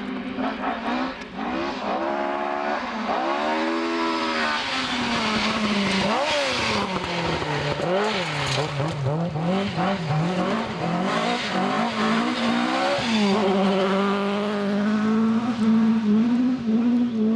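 Rally car engine driven hard on a stage, its note rising and falling again and again as the driver changes gear and lifts off. Near the end it holds a steady high note, then cuts off suddenly.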